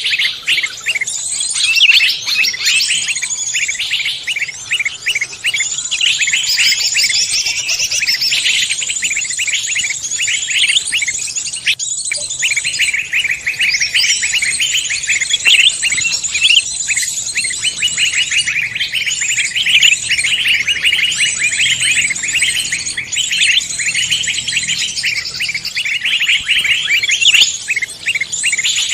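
A dense chorus of many songbirds chirping and trilling at once, rapid high notes overlapping without pause: a mixed-species bird-lure recording.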